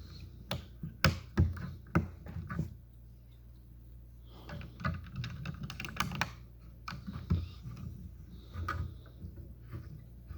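Small plastic Lego pieces clicking and clattering as they are handled and pressed together, in two bursts of quick sharp clicks.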